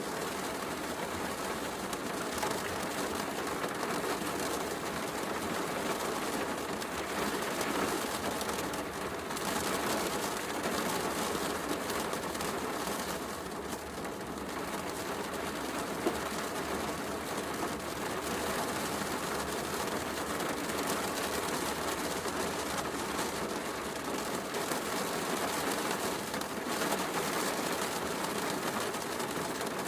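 Steady heavy rain mixed with a fireplace crackling, with one sharper pop about sixteen seconds in.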